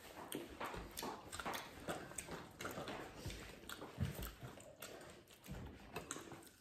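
Biting and chewing crispy breaded fried chicken: a string of small, irregular crunches and mouth sounds.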